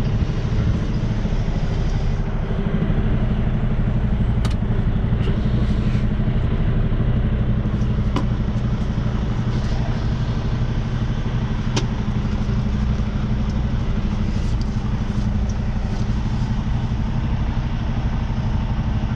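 Semi truck's diesel engine running steadily near idle while the rig is manoeuvred slowly in reverse, with a few sharp clicks now and then.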